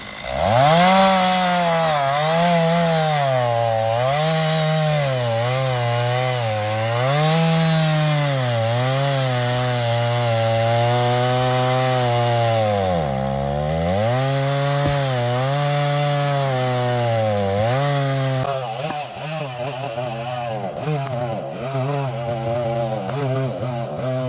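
Chainsaw running and cutting wood, its engine pitch rising and sagging again and again as the chain loads into the log, with a sharp drop about 13 seconds in. Near the end it turns quieter and rougher.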